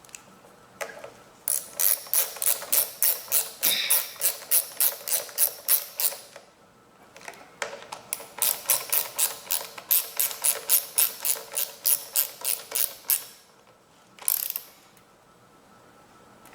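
Hand ratchet wrench clicking as bolts are run in, in two long runs of quick, even clicks about four a second, with a short burst near the end.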